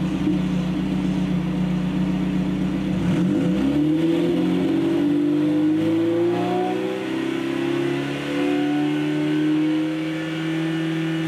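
Lada 2110's four-cylinder petrol engine running steadily, then revved up about three and a half seconds in, its pitch climbing smoothly for a few seconds and then held at high revs. This is a stationary no-load rev test through a square straight-through muffler.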